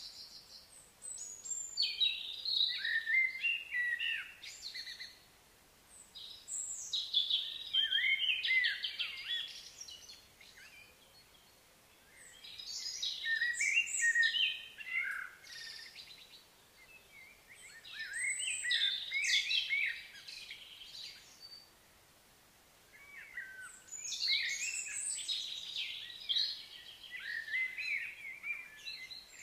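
Songbird singing: long, varied warbling phrases of about three to four seconds, repeated five times with short pauses between.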